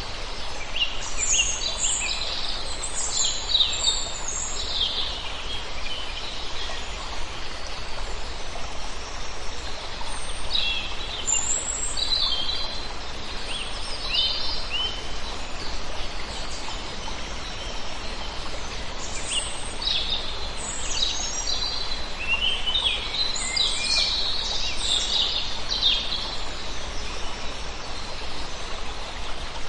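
A flock of small birds chirping, many short, high calls overlapping in three spells of several seconds each, over a steady background hiss.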